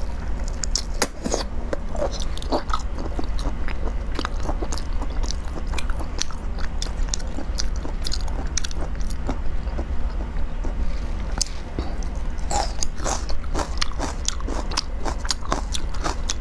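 Close-miked biting and chewing of prawn and red onion: a dense run of wet clicks and crunches, over a steady low hum.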